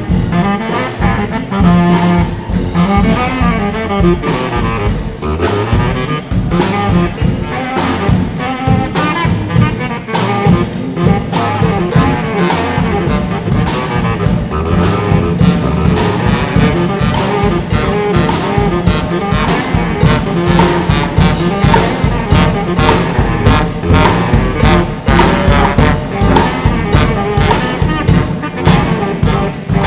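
Brass band playing jazz, with trumpets, trombones and saxophone over a steady beat.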